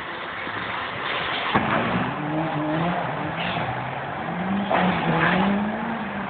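Truck engine running and accelerating, its pitch climbing twice, with a sharp click about one and a half seconds in.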